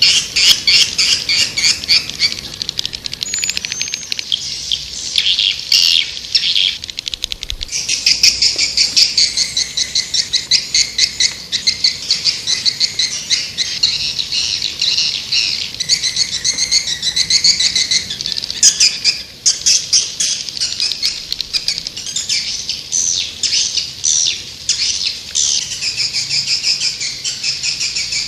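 White-nest swiftlet (walet putih) calls: a dense, unbroken chatter of quick high chirps and trills. This is a swiftlet call (suara panggil) recording, the kind played from swiftlet houses to lure the birds in to nest.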